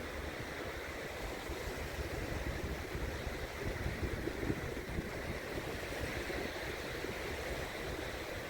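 Small waves washing steadily onto a sandy beach, with wind.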